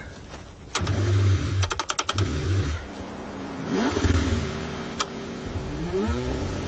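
A car engine struggling in the freezing cold, running and revving in short surges with rising and falling pitch, mixed with sharp clattering clicks.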